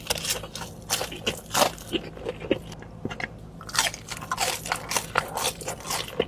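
A person biting into and chewing crispy fried hot chicken close to the microphone, with a run of irregular loud crunches.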